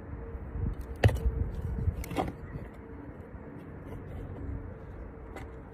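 Handling sounds from potting plants: a sharp knock about a second in and a second one about a second later, over a low steady rumble.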